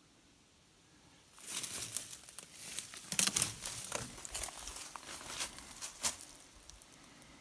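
Dry brush and leaves crackling and rustling, with sharp snaps, as someone moves through them. It starts about a second and a half in, is loudest around the middle, and dies away after about six seconds.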